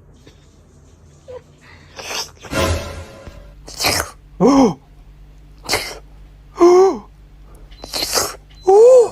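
An animal making short breathy bursts, like sneezes or hisses, about six times, alternating with three short pitched cries that bend in pitch; the first cry falls steeply and the last rises.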